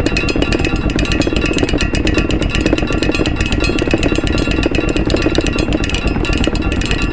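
Washing machine running with a fast, rhythmic mechanical clatter, used as the beat of a homemade samba and layered with improvised percussion such as maracas.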